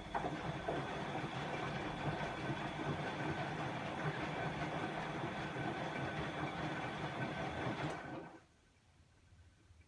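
Bosch WAE24162GB03 washing machine's motor turning the drum during the rinse, a steady rumble of laundry and water tumbling with a faint motor whine, which stops about eight seconds in.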